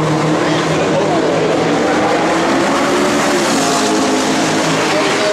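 McLaren P1's twin-turbo V8 running on track, its engine note holding fairly steady and stepping lower in pitch about three and a half seconds in.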